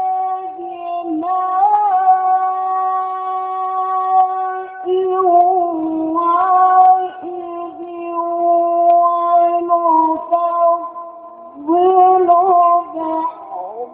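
Male Quran reciter's voice in the melodic mujawwad style, stretching the vowels of a verse into long ornamented notes. One note is held steady for about the first five seconds, then the line moves lower through wavering, embellished turns with brief breaths.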